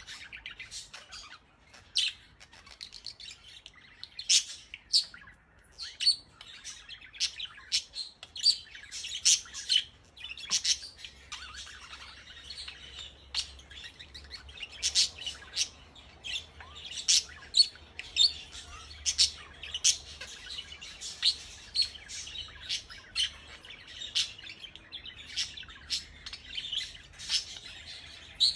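Pet budgerigar chirping and chattering: many short, sharp chirps at irregular spacing, a couple a second, with softer warbling chatter between them.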